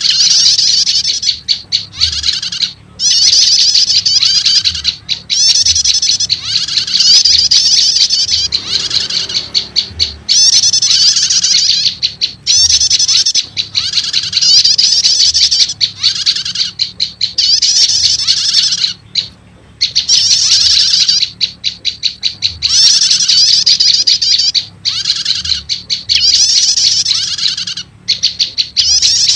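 Bird-lure recording of prenjak lumut calls mixed with prenjak 'stater' calls: fast runs of high, chattering chirps in bursts of a second or two, broken by short gaps, repeated without a pause for long.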